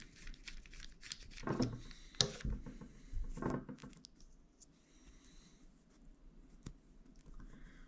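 Light clicks and scraping as a screw is being backed out of a shower valve cartridge by hand, small metal and plastic parts rubbing and tapping at irregular moments.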